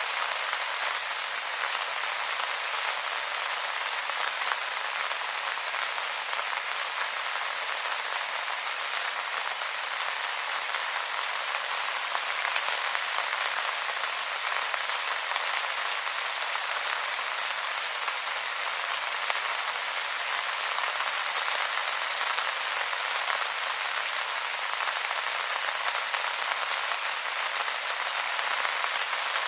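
Steady rain pattering on wet leaves, an even hiss of many small drops with no single louder event.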